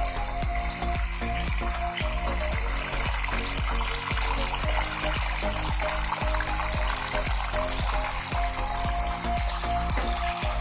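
Water trickling and splashing from a small homemade pot fountain fed by a submersible pump, under background music with a steady beat.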